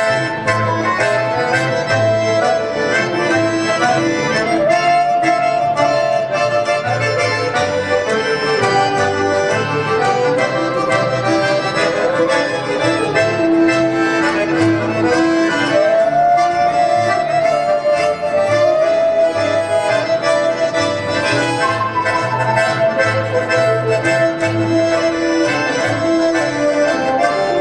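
Accordion playing an instrumental melody over a steady rhythmic bass-and-chord accompaniment, a break between verses of a song.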